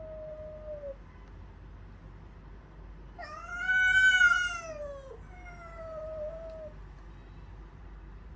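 Domestic cat meowing three times: a short call at the start, then a long, loud meow about three seconds in that rises and falls in pitch, followed straight away by a shorter one.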